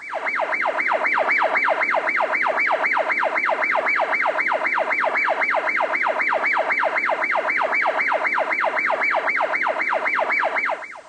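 Electronic emergency-vehicle siren in a fast yelp: a steady run of quick pitch sweeps, about three a second, each falling from high to low before snapping back up. It stops abruptly near the end.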